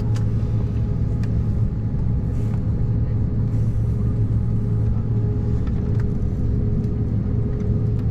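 Steady cabin noise of an Embraer 190-E2 airliner with Pratt & Whitney geared turbofan engines: an even rumble of engines and airflow with a constant low hum and a fainter steady higher tone.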